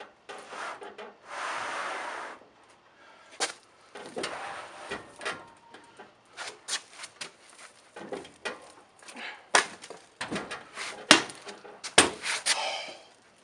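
Work on a tool box being assembled: a series of irregular knocks and clicks, with a rubbing scrape lasting about a second, a second or so in.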